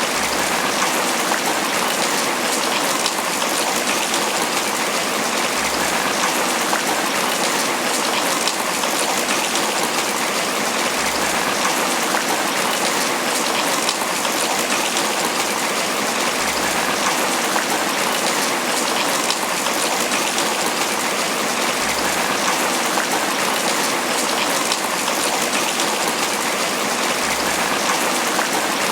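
Steady, heavy tropical rain pattering on banana leaves: a dense, even downpour with no let-up.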